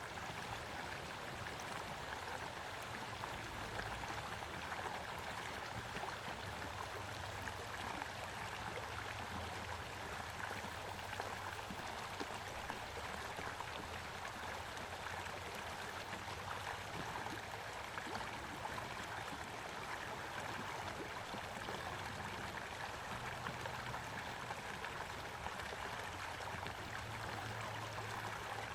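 Small stream flowing steadily, a constant babbling rush of water with no let-up.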